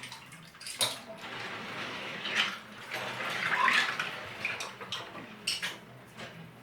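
Hands sloshing through water among soaking Lego pieces, with a few sharp clicks of small plastic pieces knocking together.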